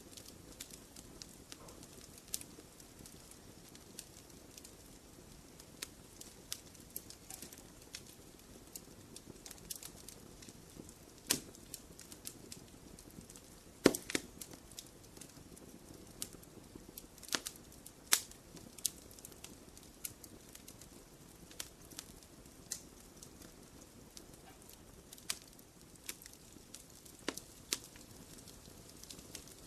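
Wood fire crackling, with irregular sharp pops over a faint steady low rush of the flames; the loudest pops come about 11, 14 and 18 seconds in.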